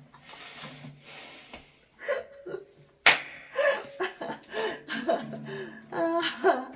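A single sharp slap about three seconds in, then short bursts of soft voice and chuckling.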